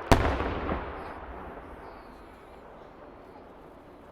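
A firework shell bursting overhead with one sharp, loud bang, followed by a low rumbling echo that dies away over a couple of seconds, and a smaller thump shortly after the bang.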